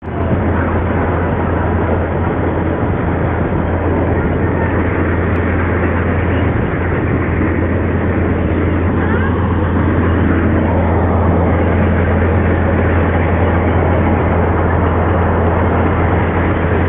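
Steady, loud rumble of a vehicle in motion, with a constant low hum underneath and no distinct knocks or changes.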